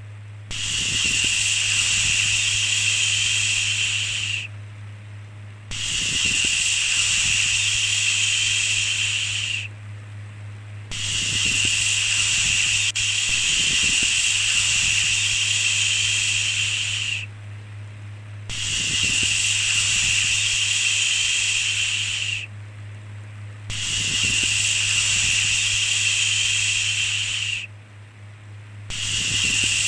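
Repeated long 'shhh' shushing sounds, each held about four to six seconds with a pause of about a second between them, over a steady low hum.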